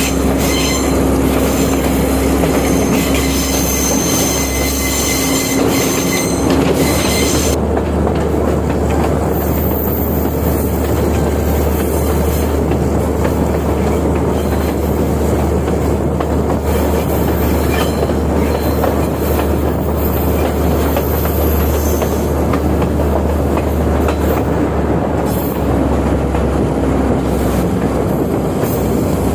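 Class S14A diesel multiple unit running along the track: a steady rumble of wheels on rail with clatter and squeal. A steady hum and a high hiss drop away about seven seconds in.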